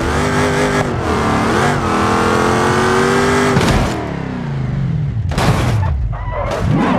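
Race car engine sound effect: the engine runs high and steady, then drops away in falling pitch sweeps, with short hissing bursts like tyre skids in the second half.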